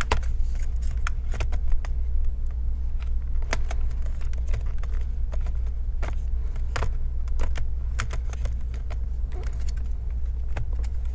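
Irregular small clicks and taps of laptop parts being handled as the battery is reconnected and fitted into the open laptop, over a steady low hum.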